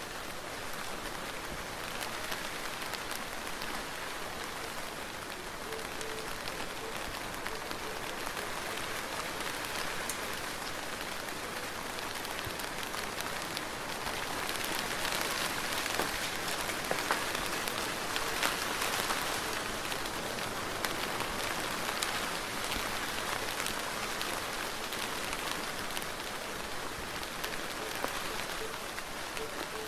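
Steady soft rain falling, a dense patter of drops, swelling a little louder for several seconds around the middle.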